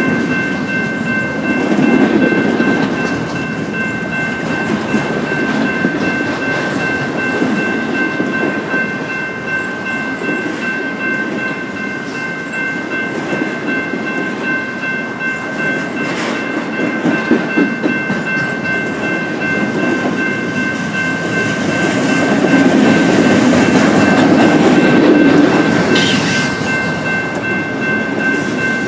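Freight train cars rolling past, a steady rumble with wheels clacking over the rails, louder for a stretch near the end. Several steady high ringing tones sound over it throughout.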